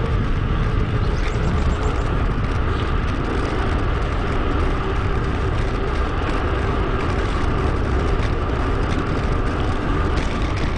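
Steady wind rush on an action camera's microphone while riding a mountain bike, mixed with tyre and road noise.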